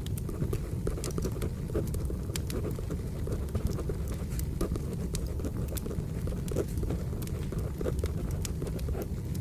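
Wood fire burning, with a steady low rumble and irregular sharp crackles and pops from the logs.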